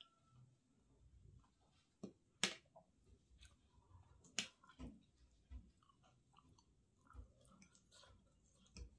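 Quiet close-miked chewing of a mouthful of pani puri, with a few sharp clicks of a metal fork against a ceramic plate, the loudest about two and a half seconds in.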